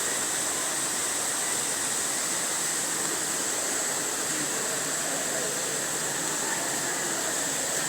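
Steady, even rushing noise with a high hiss on top, unchanging throughout.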